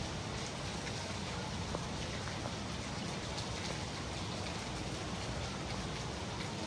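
Steady rainfall with many small drops ticking on surfaces.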